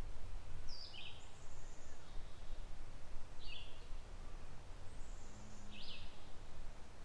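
Songbirds calling in short chirped phrases, one roughly every two and a half seconds, with a few higher thin notes between them, over a steady low rumble from the open-air creek scene.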